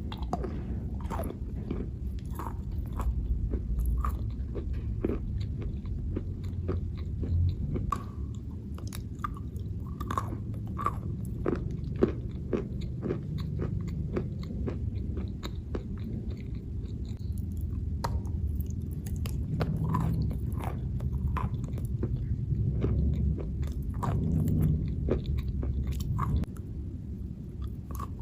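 A person biting and chewing chalk: irregular crisp crunches, a few each second, over a low rumble.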